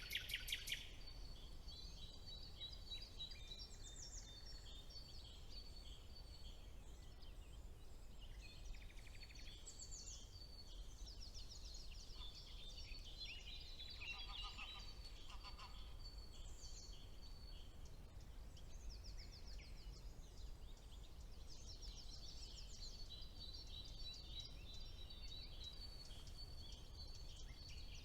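Several songbirds singing at once in a woodland chorus, with rapid trills and quickly repeated high notes, over a low steady background rumble.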